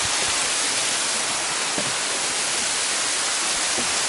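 A waterfall's steady rush of falling water, an even hiss with no let-up, with a few faint low knocks under it.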